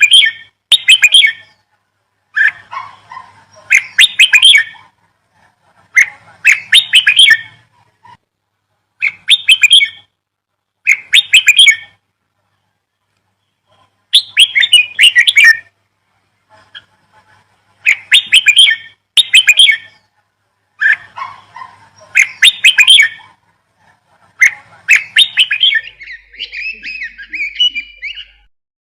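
Songbird chirping in repeated bursts of rapid, high chirps, each burst lasting a second or two with short silences between, about a dozen in all; near the end it runs into a longer, unbroken twittering.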